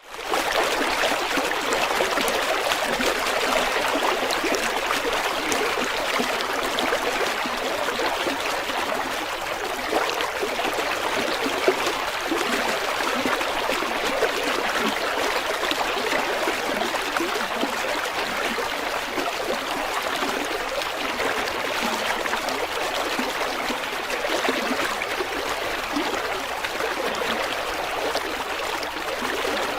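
River water running steadily over rocks, a continuous rushing with fine splashing and trickling.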